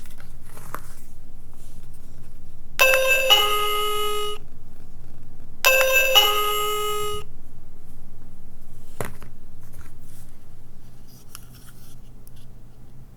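Electronic capsule-toy sound button playing a two-note 'ping-pong' chime, a higher note dropping to a lower one, twice about three seconds apart, followed by a single click a few seconds later.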